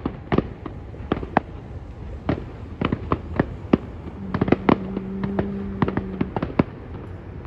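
Aerial fireworks shells bursting in the distance: a rapid, irregular string of sharp bangs over a steady low rumble. A steady low tone sounds for about two seconds midway through.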